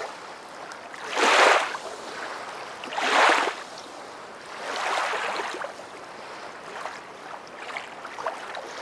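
Rushing water rising and falling in washes, two strong swells about two seconds apart followed by a softer one, then a steady lower hiss.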